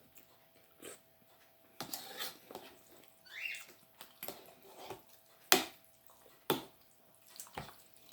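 Close-up eating sounds: chewing and wet mouth clicks and smacks at irregular moments, with a short squeaky slurp about three and a half seconds in.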